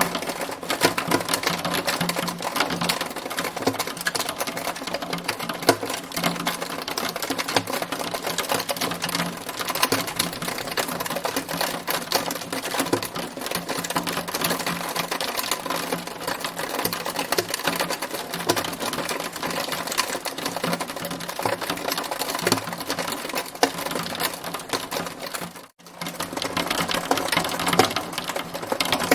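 Hail pelting a hard surface: a dense, continuous rattle of rapid ticks, broken by a momentary dropout near the end.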